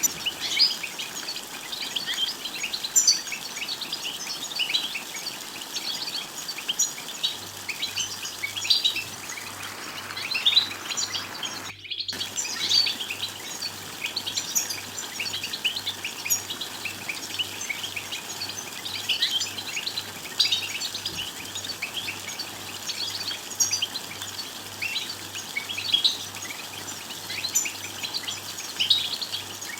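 European goldfinches twittering: a dense, continuous run of quick high chirps and trills, broken by a brief gap about twelve seconds in.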